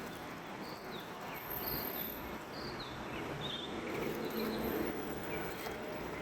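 A bird chirping repeatedly: short high notes falling in pitch, about one a second, over a steady background hiss.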